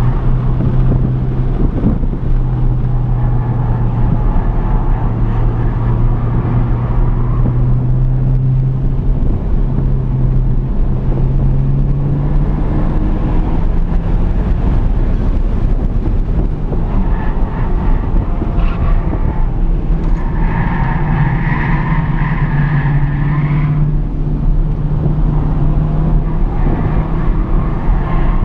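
Honda Civic Type R (FK8) 2.0-litre turbocharged four-cylinder running under load at track speed, heard from inside the cabin. The engine note holds fairly steady and climbs a little in the second half, over continuous road and wind noise.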